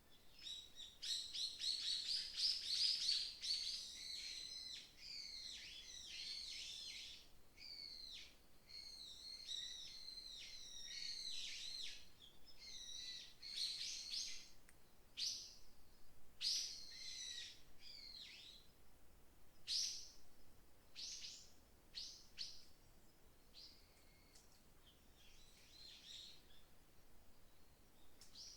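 Wild songbirds singing in a forest. Several birds overlap in a dense chorus of chirps and trills for about the first ten seconds, then it thins to scattered short calls and single chirps.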